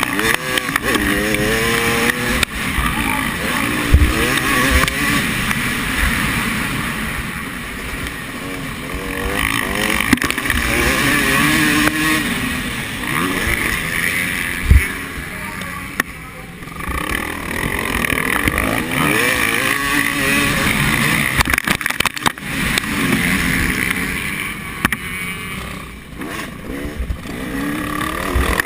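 Motocross bike engines revving up and falling back again and again as the bikes ride the track, with wind buffeting the microphone.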